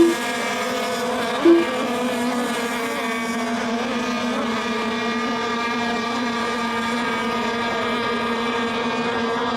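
Several radio-controlled racing boats running laps, their small engines making a steady, unbroken drone. A short loud beep sounds about one and a half seconds in.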